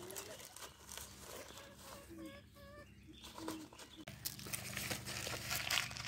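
A few soft, wavering bird calls about two to three seconds in. From about four seconds on, a louder crackling, crunching rustle with many small clicks.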